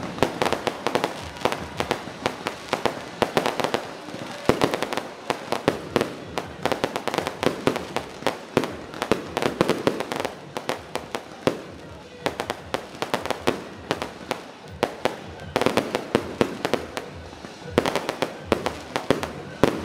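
Aerial fireworks bursting overhead in a rapid, irregular string of sharp bangs, several a second without a break.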